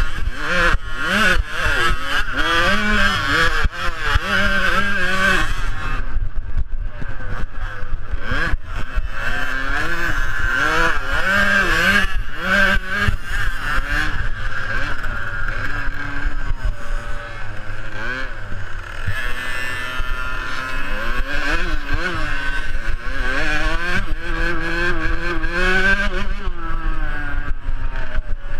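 Small two-stroke youth motocross bikes racing, their engines revving up and falling back again and again, with the pitch rising and dropping every second or two.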